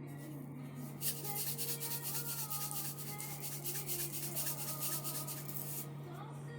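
Quick, even rasping strokes, several a second, starting about a second in and stopping shortly before the end, over soft background music.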